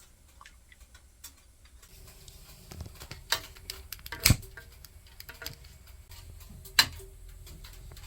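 Scattered light ticks and clicks, with three sharper knocks, the loudest about four seconds in.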